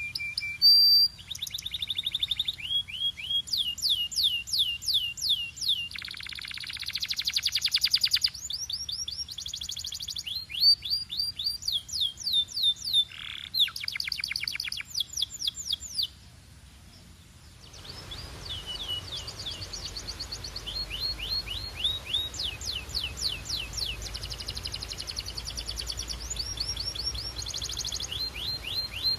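Domestic canary singing: a run of quick trills, each a rapid string of repeated falling high notes, with a dense rolling buzz early on and a short pause about two-thirds of the way through before the trills resume over a steadier background hiss.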